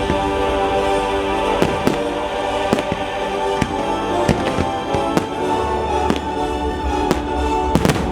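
Fireworks bursting in sharp bangs roughly once a second, two in quick succession near the end, over the fireworks show's musical soundtrack.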